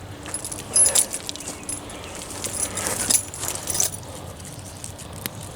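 Leafy weeds rustling and crackling as they are pulled up by hand, in irregular bursts about a second in and again around three to four seconds in.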